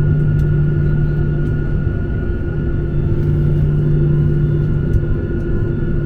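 Boeing 737-800's CFM56 jet engines at takeoff power, heard from inside the cabin as a loud steady roar with a constant low hum and a thin high whine.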